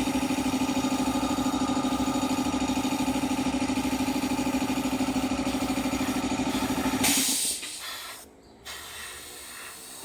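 Small airbrush air compressor running with a steady, fast-pulsing hum, then shutting off about seven seconds in with a short burst of hissing air. A fainter hiss of air follows.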